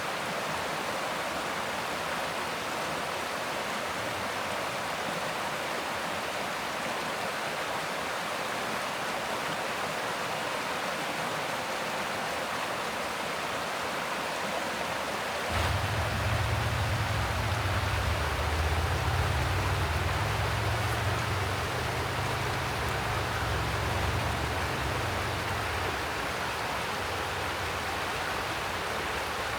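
Mountain stream flowing steadily, an even rush of water. About halfway through a low rumble joins it for roughly ten seconds, then fades.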